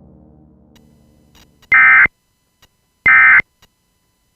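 Emergency Alert System end-of-message signal: short, harsh bursts of digital data tones, repeating about every 1.3 seconds. Two sound in full and a third starts at the very end, after a faint low hum has died away.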